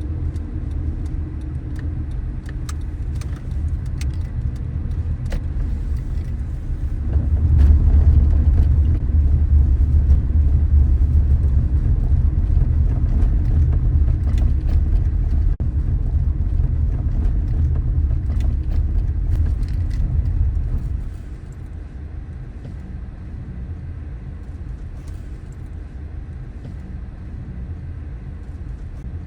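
A car driving, heard as a steady low rumble of engine and road noise. It swells louder about seven seconds in and drops back about twenty-one seconds in, with a few faint clicks scattered through it.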